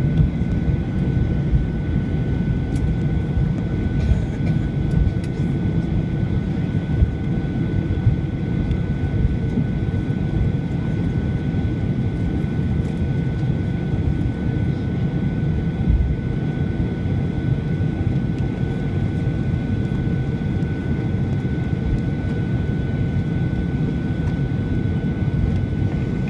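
Steady cabin noise inside a Boeing 737-800 on the ground after landing: the CFM56 jet engines running at low power under a low rumble, with a faint steady whine above it.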